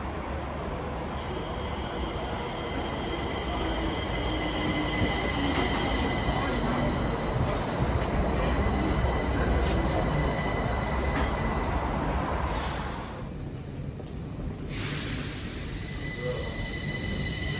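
Stockholm Metro train running on the track: a continuous rumble of wheels on rails, with several thin, steady high-pitched tones above it. It grows louder through the middle and drops away briefly about thirteen seconds in before building again.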